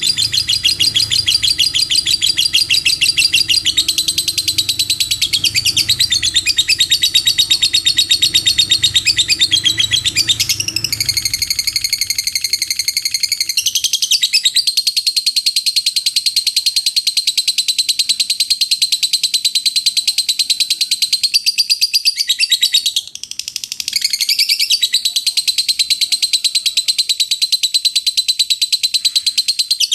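Lovebird giving its long 'ngekek' chatter: an unbroken stream of rapid, high, sharp notes, many per second. There is a short break about two-thirds of the way through.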